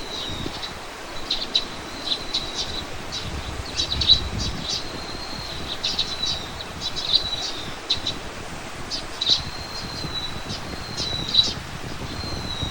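Small birds chirping and calling over and over, short high chirps mixed with thin drawn-out whistles, over a steady low background hum.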